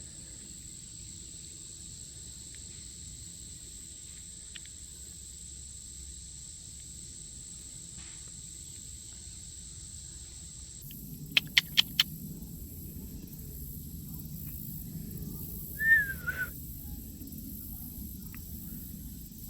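Steady high insect drone, then after a cut a change of background with a low rumble like wind, four quick sharp clicks, and one loud short chirp that dips and rises in pitch, like a bird call.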